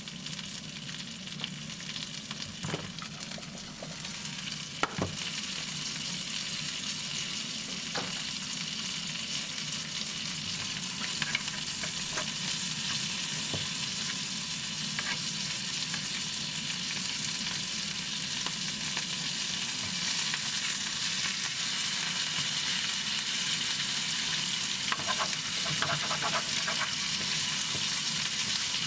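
Food sizzling in a frying pan: a steady hiss that grows a little louder over the first ten seconds or so, with a few light clicks and taps scattered through it.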